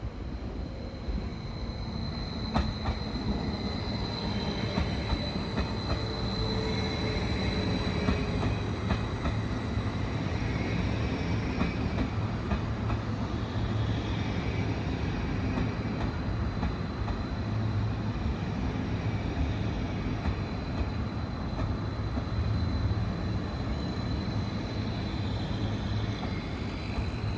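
A train running on the rails: a steady rumble of wheels on track with a high-pitched tone held over it, a little louder from about two seconds in.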